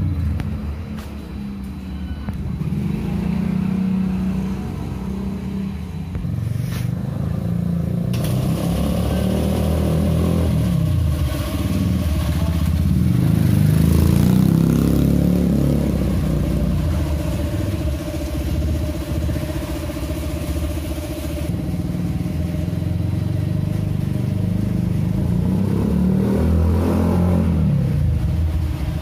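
Honda Megapro motorcycle's single-cylinder four-stroke engine, bored up to 250cc, running through a PDK racing exhaust, its revs rising and falling again and again.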